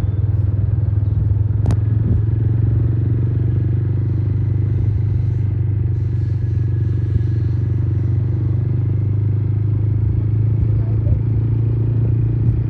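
Motorcycle engine running at a steady speed while being ridden, a steady low drone, with one sharp click about two seconds in.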